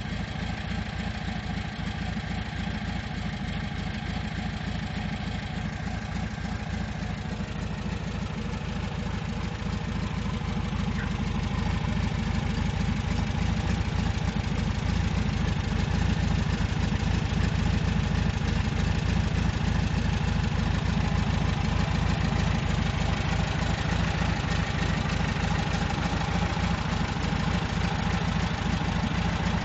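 VW 1800 cc engine with a two-barrel carburettor running steadily at idle, its even firing rhythm growing somewhat louder partway through and then holding.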